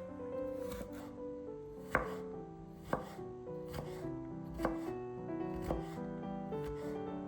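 A knife chopping food on a cutting board, single strokes about once a second, over background music.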